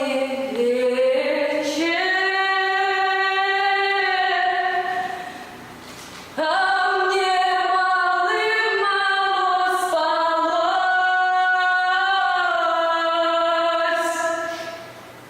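Female voices singing a slow melody without instrumental accompaniment, in two long held phrases with a short pause about five seconds in.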